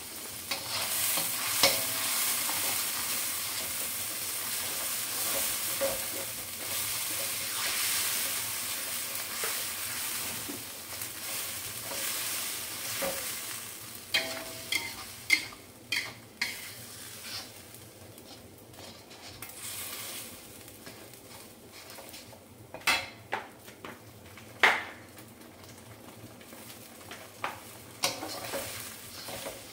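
Blended chili spice paste, with ginger, galangal, lemongrass and bay leaf, sizzling in hot oil in a steel wok as it is stirred with a spatula. The sizzle is strongest for about the first dozen seconds, then dies down, and sharp scrapes and taps of the spatula against the wok stand out in the second half.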